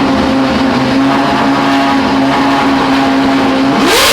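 Loud Ferrari 812 V12 engine through a Ryft aftermarket exhaust, held at steady revs, then revved sharply up near the end.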